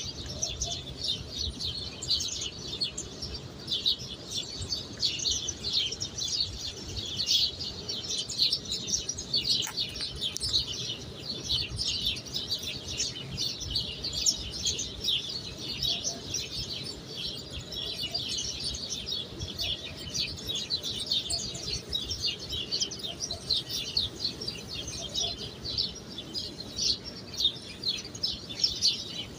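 Many small birds chirping continuously, a dense chatter of short high chirps with no pause.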